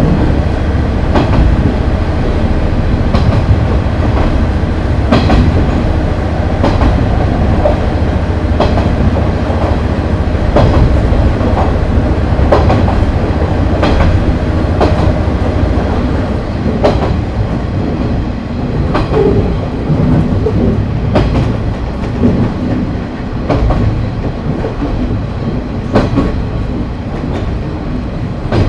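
Onboard a KiHa 30 diesel railcar in motion: a steady low rumble from the underfloor DMH17 diesel engine and the running gear, with the clack of the wheels over rail joints every second or two.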